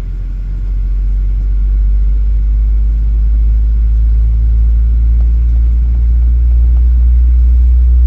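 Low, steady rumble inside the cabin of a Boeing 737-800 on the ground with its engines running. It grows louder over the first second, then holds.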